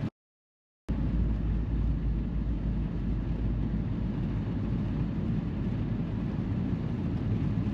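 Steady low road and engine rumble inside a car's cabin, heard after a brief dead-silent gap near the start where the audio cuts out.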